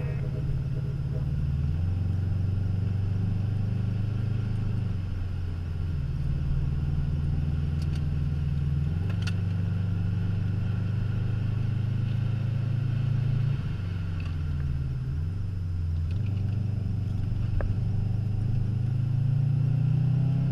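Subaru Impreza WRX STI's turbocharged flat-four engine, heard from inside the cabin while being driven hard on a circuit. The revs rise and fall with gear changes, dipping and climbing again about three-quarters of the way through and rising near the end.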